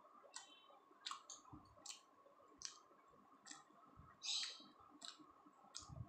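Quiet, wet mouth clicks and smacks of someone chewing soft paratha, roughly two a second, with one longer crackle about four seconds in, over a faint steady whine.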